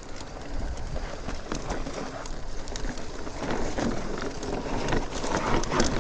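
Mountain bike rolling down a dirt trail: tyres crunching and crackling over dirt and small rocks, with the bike rattling. It gets louder in the last couple of seconds.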